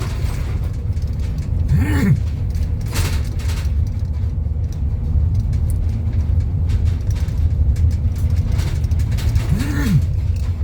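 Road noise inside a moving car's cabin: a steady low rumble with a few brief knocks, and twice a short tone that rises and falls.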